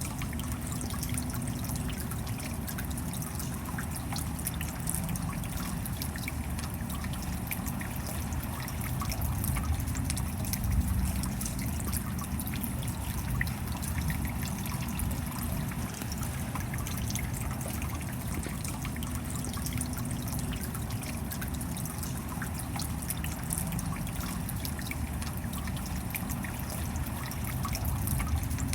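Steady rain falling, with many small drop taps scattered over a constant even wash.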